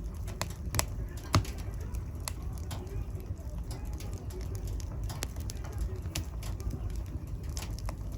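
Wood fire burning in a fireplace: a steady low rumble with scattered sharp crackles and pops, one louder pop about a second and a half in.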